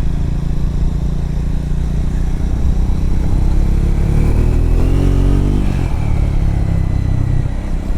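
Triumph Scrambler motorcycle engine running under way on a gravel road, with the engine note rising and dipping about halfway through.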